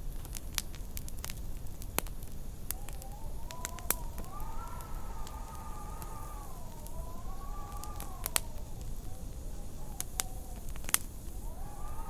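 Wood fire crackling with scattered sharp pops over a steady low rumble of wind. Through the middle and again near the end, the wind howls in a wavering whistle that rises and falls.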